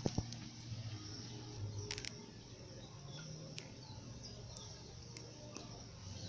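Quiet outdoor ambience: faint, scattered bird chirps over a low steady hum, with a few sharp clicks near the start and about two seconds in.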